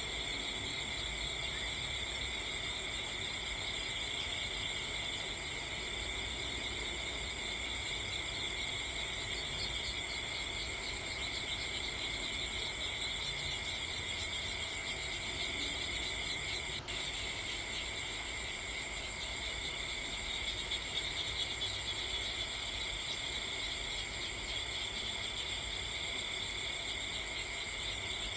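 Steady chorus of crickets chirring, several pitches at once, without a break.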